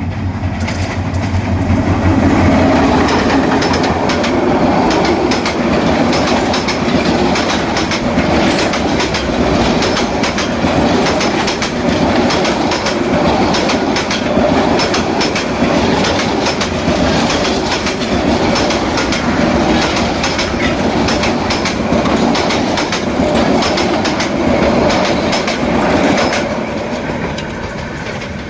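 Bangladesh Railway train running, its steel wheels clacking in a steady rhythm over the rail joints with a loud rumble of carriages. The sound eases off slightly near the end.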